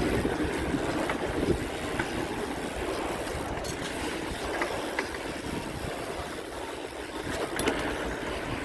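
Steady wind and rolling noise from riding a bicycle, with a few short sharp clicks.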